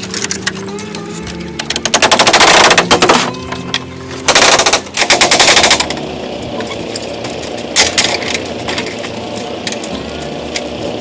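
Two loud bursts of rapid mechanical rattling, each lasting about a second or so, with scattered sharp clicks around them, over a steady background of sustained tones.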